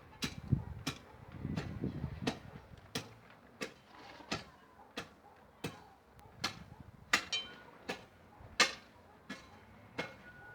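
Hoe blade striking the ground over and over in a steady rhythm, a sharp knock about every 0.7 seconds.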